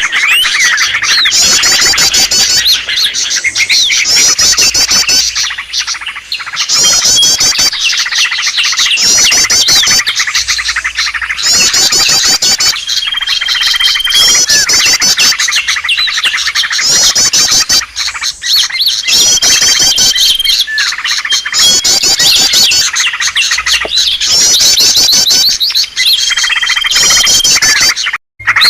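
Bird-lure recording: a dense, noisy chorus of many small birds chirping and trilling, with a short steady whistle among them. The mix repeats about every six to seven seconds and cuts out briefly near the end.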